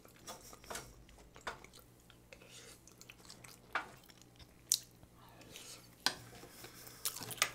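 Close-miked chewing of fried rice with its crispy scorched crust (nurungji), with scattered sharp clicks and small scrapes of a wooden spoon against the pan.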